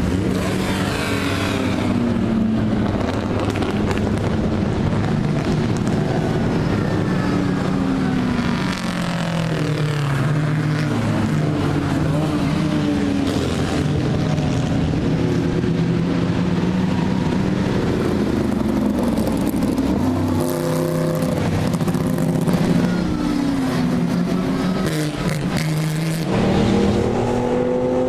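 Historic racing cars' engines at full race pace, several cars in turn, their notes rising under acceleration and dropping at gear changes and as they pass. There are abrupt switches from one car's sound to another.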